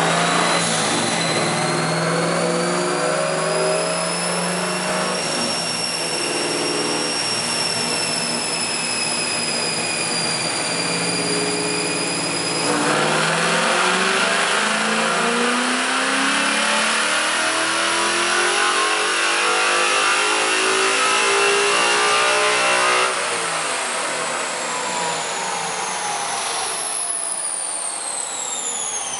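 A 2004 Mustang GT's swapped Ford 5.0 Coyote V8 running on a chassis dyno. It runs steadily in gear at first, then about 13 seconds in goes to full throttle for a dyno pull, revs climbing for about ten seconds. The throttle is lifted and the engine and rollers wind down with a falling whine near the end.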